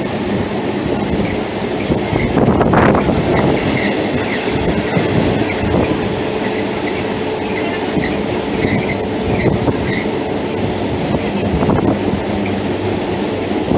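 Electric multiple unit local train running: a continuous rumble and clatter of wheels on rail, with brief high wheel squeals scattered through and a louder surge about two and a half seconds in.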